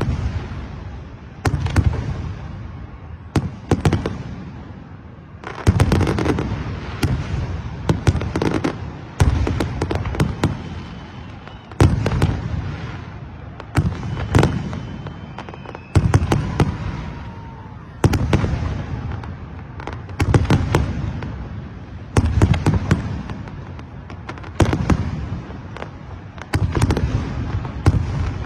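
Aerial fireworks bursting one after another, a loud bang about every two seconds, each followed by quick crackling and a low rumbling echo that fades before the next.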